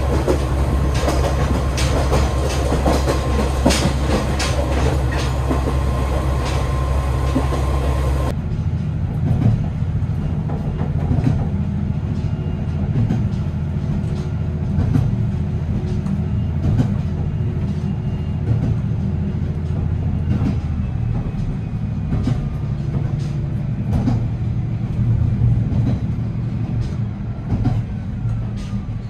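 Diesel railcar running along jointed track, heard from inside the train: a steady low engine drone with wheels clicking over the rail joints. About eight seconds in the sound changes abruptly to a quieter car with less rushing noise, where the engine drone and clicks carry on.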